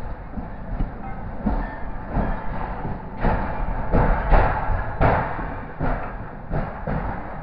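Moving passenger express train heard from beside a coach window: a continuous rumble with irregular thuds of the wheels over the rail joints, about one or two a second.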